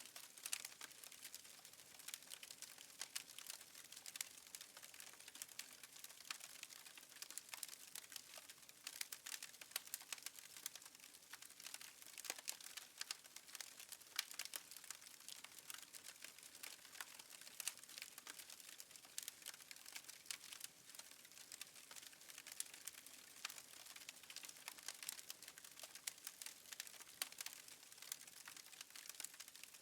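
Wood fire in a fireplace crackling faintly: a steady stream of small, irregular pops and ticks.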